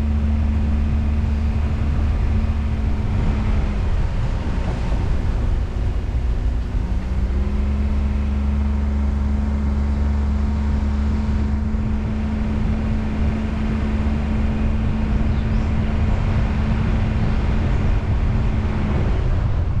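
Car driving along, with a steady engine drone and road noise. The drone's pitch drops for a few seconds about a quarter of the way in, then rises and holds steady again, fading just before the end as the car slows.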